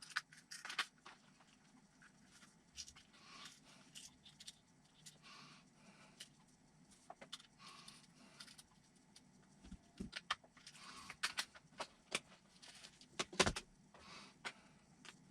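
Scattered light clicks and taps of small RC-car hardware and hand tools being handled on a workbench, as a ball stud is refitted with a different spacer. The clicks come more often and louder in the last few seconds.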